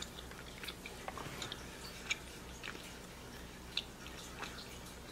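A person chewing a gummy candy: faint, wet mouth clicks and smacks scattered irregularly, over a low steady hum.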